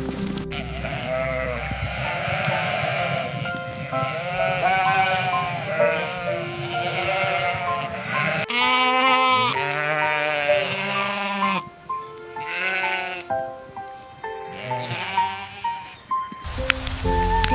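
Sheep bleating again and again, in wavering, quavering calls, over background music. The bleats stop abruptly about a second before the end.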